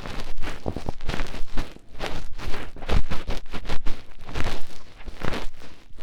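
Fingertip digging and rubbing deep in an ear for ASMR: close, irregular scratchy rubbing strokes, several a second, with brief pauses between runs.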